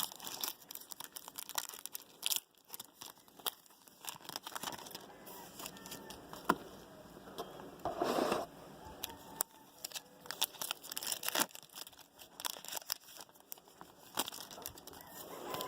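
Trading card pack wrappers tearing and crinkling as cards are handled, a steady run of small crackles and clicks, with one louder rustle about halfway through.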